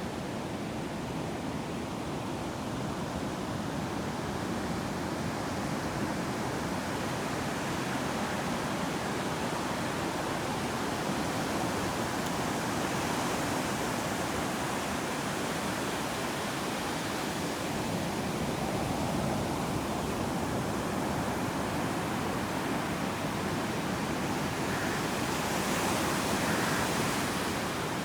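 Ocean surf washing steadily onto a sandy beach, a continuous rush of breaking and receding waves that swells a little near the end.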